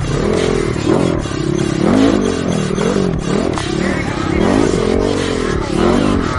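Dirt bike engine revved again and again, its pitch swelling up and dropping back in quick repeated arcs.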